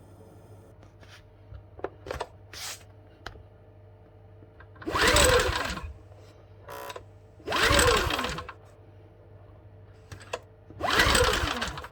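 Champion 8200i-DF-EU dual-fuel generator engine being cranked three times, each about a second long and winding down in pitch without catching. The engine will not start on LPG.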